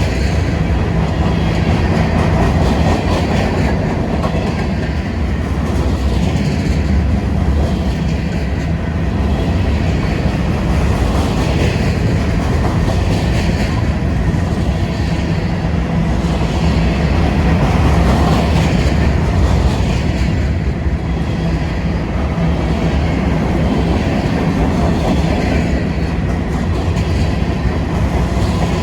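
Norfolk Southern freight train rolling past steadily, its car wheels clicking over the rail joints over a continuous rumble.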